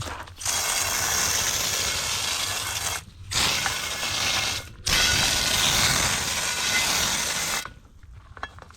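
A power tool run in three bursts of roughly one and a half to three seconds each, stopping abruptly about three seconds in, near five seconds and near the end. It is most likely cleaning or polishing the wheel parts.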